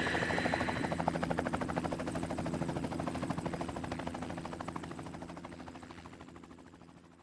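Helicopter sound effect: a rhythmic rotor chop over a steady engine hum, fading out gradually to silence.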